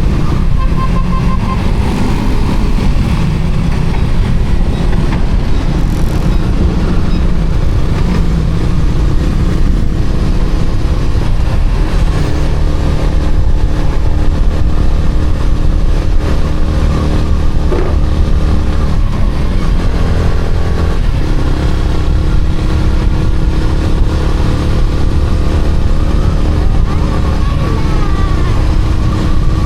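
Yamaha Sniper 155R's single-cylinder engine running while riding, under heavy wind rumble on the microphone. The engine note shifts pitch a few times as the speed changes.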